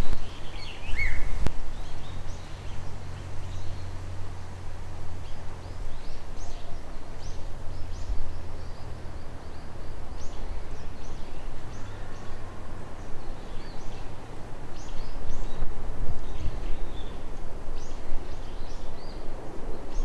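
Small wild birds chirping, many short high calls scattered over steady outdoor background noise, with a low hum underneath for the first half.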